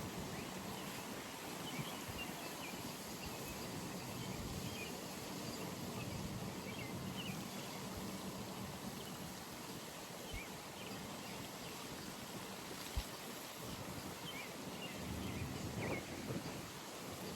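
Outdoor pond ambience: a steady background hiss with faint, scattered bird chirps, and a single sharp click about three-quarters of the way through.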